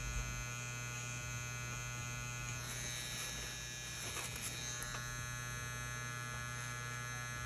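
Tattoo machine running with a steady electric hum.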